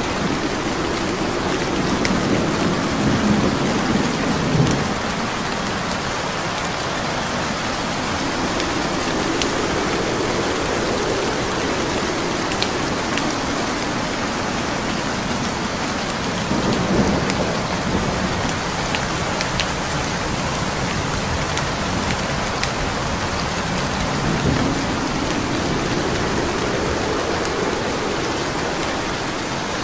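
Steady rain mixed with the crackle of a burning wood fire, thin sharp pops scattered throughout. Slow low rumbles swell and fade three times.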